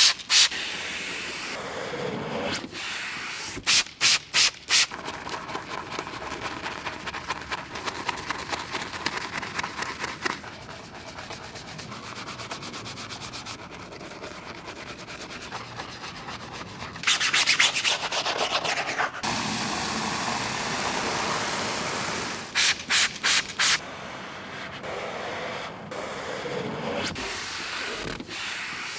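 Car being hand-washed: wet rubbing and scrubbing strokes on the soapy bodywork, with water spray hissing. Groups of short, sharp spray bursts come near the start, about four seconds in and about twenty-three seconds in, and a louder hiss of spray lasts a couple of seconds just past the middle.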